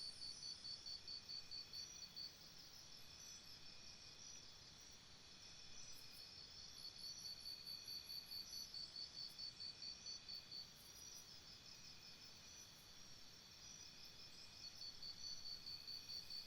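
Jungle insect chorus: a high-pitched chirping of rapid pulses, about five a second, in runs of a few seconds that stop and start again, over a steady high insect drone.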